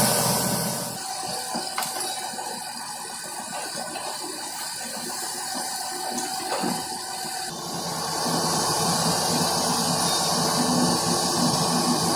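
Water rushing and churning, growing louder about eight seconds in.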